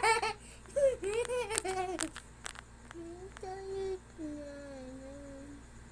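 A person laughing in short choppy bursts, then humming a few slow, held notes over the second half.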